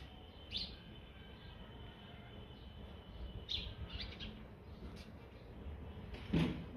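Birds chirping now and then in short, high calls over a faint background hum, with one brief louder thump near the end.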